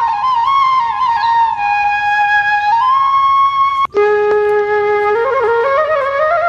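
Background music: a solo flute melody with long held notes, a brief break about four seconds in, then a rising run of notes near the end.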